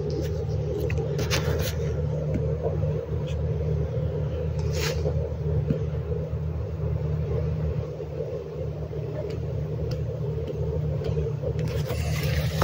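Tractor and harvesting machinery running steadily: a low, even engine drone, with a short burst of noise about five seconds in.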